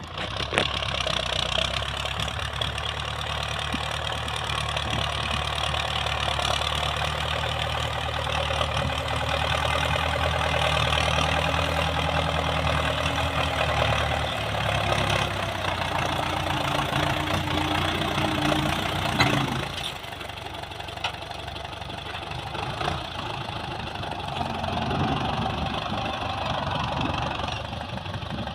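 Old Soviet-built tractor's engine running steadily. About two-thirds of the way through, its note shifts and then drops to a quieter, lower running sound.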